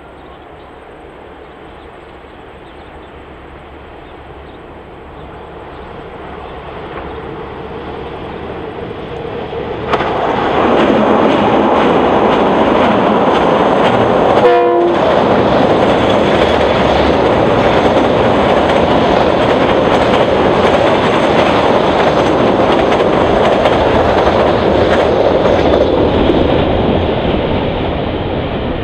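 KiwiRail DXB-class diesel-electric locomotive hauling a freight train, growing steadily louder as it approaches. It turns suddenly loud about a third of the way in as the locomotive passes close and the wagons rumble and clatter across a bridge. There is a short horn-like toot about halfway, and the sound begins to ease off near the end.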